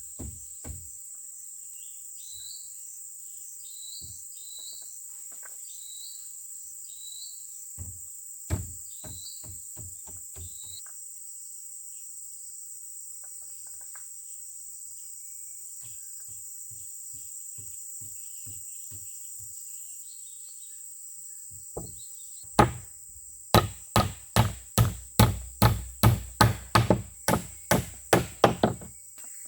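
Heavy blows on wood, as in chopping or driving stakes while building a shelter: scattered single knocks at first, then a quick run of about fifteen strong strikes near the end, over a steady high drone of insects.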